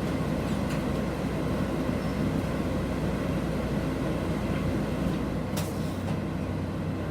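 City bus under way, heard from inside the cabin: steady engine and road noise, with a short hiss about five and a half seconds in.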